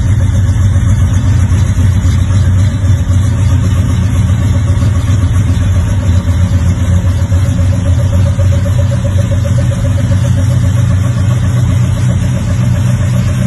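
Chevy 350 small-block V8 idling steadily with a deep, even low-pitched note.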